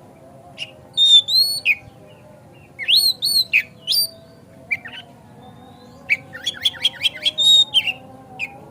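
Oriental magpie-robin (kacer) singing: clear, loud whistled notes that swoop up and down in pitch, in three phrases, the last a fast run of short notes, over a faint steady hum.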